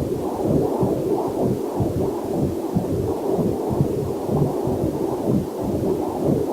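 Fetal Doppler heart monitor output: a rapid, even, whooshing heartbeat pulse, about two beats a second, with a faint waterfall mixed in underneath.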